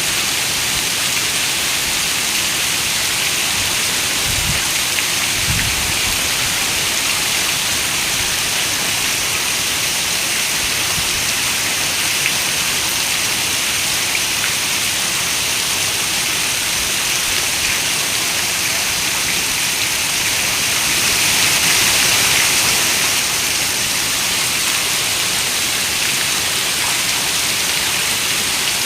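Steady rain falling on a window, a constant hiss that swells a little louder for a couple of seconds about three quarters of the way through. Two brief low thuds come about four and a half and five and a half seconds in.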